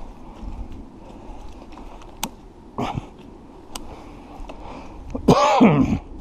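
Footsteps moving through brush with a few sharp clicks, then near the end a short, loud voice-like cry that falls in pitch.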